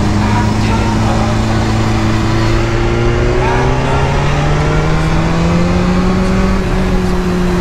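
BMW S1000RR's inline-four engine running under load, its revs holding steady and then climbing gradually midway, over heavy wind rush on the microphone.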